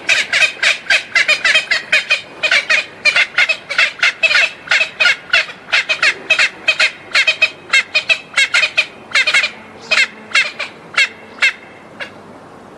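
Bird calling in a rapid run of short, repeated squawks, several a second, which stop about a second before the end.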